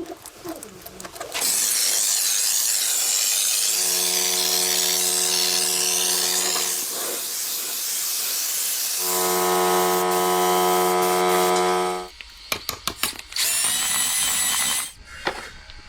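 A power tool running with a loud steady hiss, its motor hum coming in twice, then stopping about twelve seconds in, followed by scattered clicks and a short whine.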